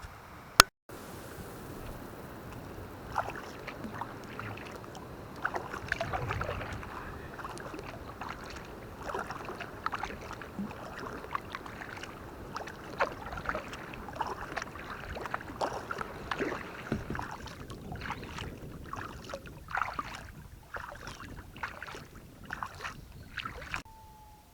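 Double-bladed kayak paddle strokes in the water: uneven splashes and drips off the blades, roughly one a second, over a steady background hiss. A single sharp click comes just under a second in.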